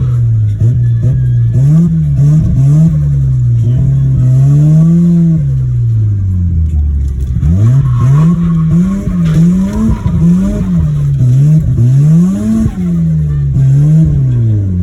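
Turbocharged 13B rotary engine of a 1988 Mazda RX-7 (FC) revving up and down repeatedly while drifting, its pitch rising and falling about once a second.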